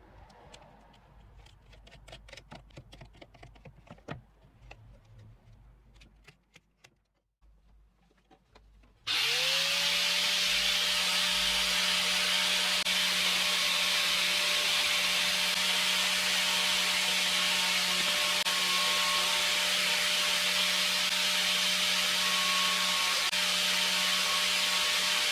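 Homemade PVC-pipe mini saw driven by a 775 DC motor, switched on about nine seconds in, spinning up within a moment and then running steadily with a high whine. Faint clicks and handling noises come before it.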